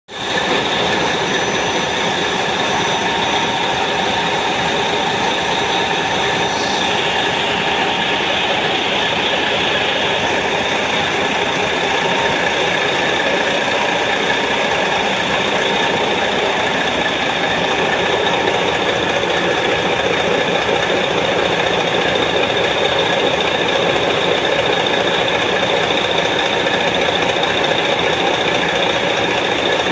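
Caterpillar 3606 inline six-cylinder marine diesel engine running steadily and loudly. A faint high whine sits over it for the first six seconds or so, then stops.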